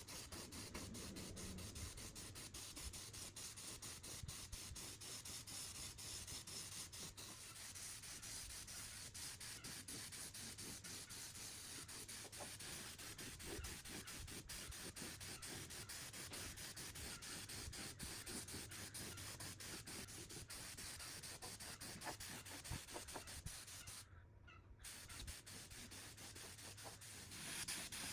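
Faint, continuous rubbing and scraping from hand work on a metal part, with many small ticks and a short break near the end.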